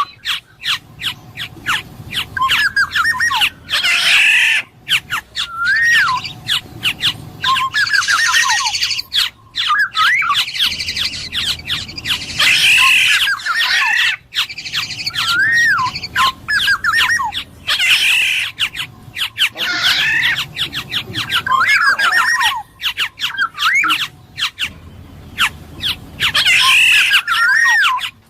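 Black-naped oriole calling over and over: fluty whistled notes that slide up and down, mixed with harsh, scratchy squawks, in phrases every couple of seconds.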